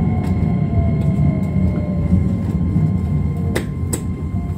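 Electric commuter train running, heard from the driver's cab: a steady rumble of wheels on rail with a faint whine that slowly falls in pitch, and two sharp clicks near the end.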